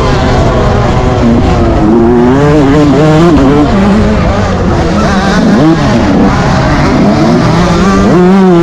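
Yamaha YZ125 single-cylinder two-stroke motocross engine under race throttle, its pitch climbing and dropping again and again as the rider opens and shuts the throttle, with two short drops about halfway through and near the end.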